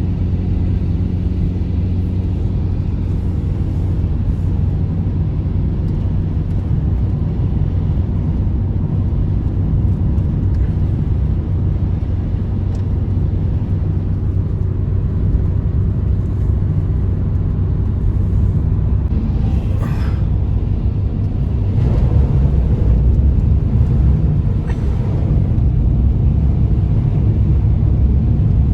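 A loud, steady low rumble, growing louder about two-thirds of the way through.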